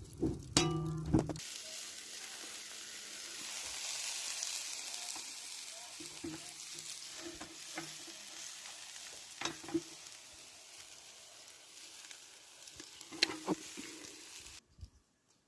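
Food sizzling over heat: a steady hiss with a few sharp pops. It starts just over a second in and cuts off suddenly near the end.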